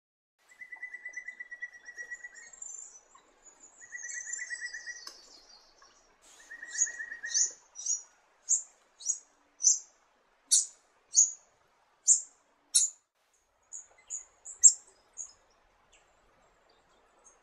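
Small birds calling: a fast buzzy trill given three times, with high twittering over it, then a string of sharp, high chirps about every half second that stops a couple of seconds before the end.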